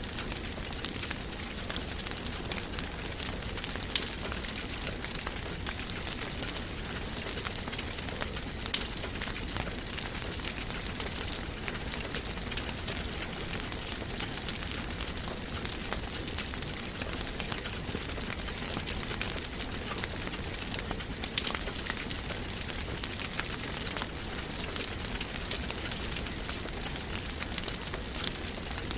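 Wood fire crackling steadily in a fireplace: a constant hiss full of small crackles, with a few louder, sharper pops.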